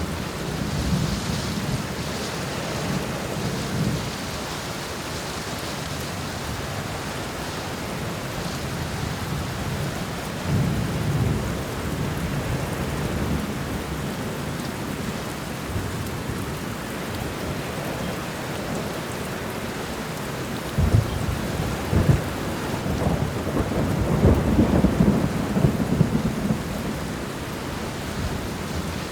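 Steady rain falling, with thunder rolling in low rumbles a few times. The thunder grows louder in the last third, with a couple of sharp cracks followed by extended rumbling.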